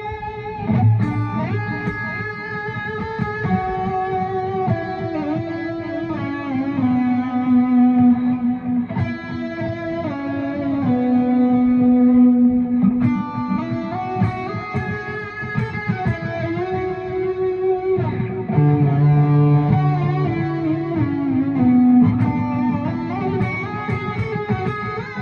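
Electric guitar played through two delay effects, running melodic phrases in D Lydian with slides between notes and long notes ringing over each other.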